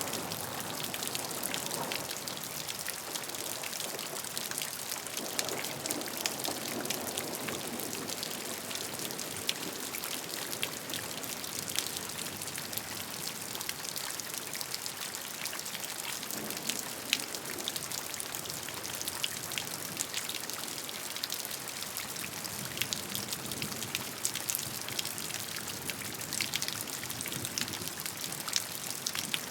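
Steady rain falling, with many close drops ticking on a surface.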